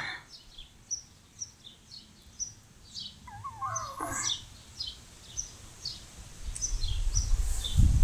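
Small birds chirping: many short, high calls repeated every half second or so. A lower sliding call comes about three and a half seconds in. A low rumbling noise builds from about six and a half seconds in.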